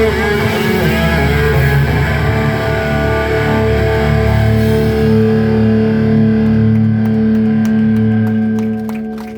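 Live rock band with distorted electric guitar, settling about four seconds in into a long held closing chord that starts to fade near the end.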